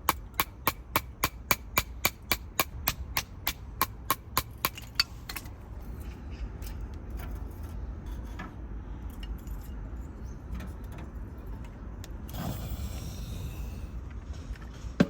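Quick, even knocks on wood, nearly four a second, for about five seconds, then fainter scattered taps over a low steady rumble, a short hiss about twelve seconds in and one last sharp knock at the end.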